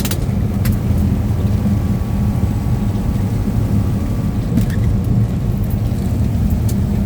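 Steady low engine and road rumble heard inside a truck cab while driving, with a few scattered sharp ticks.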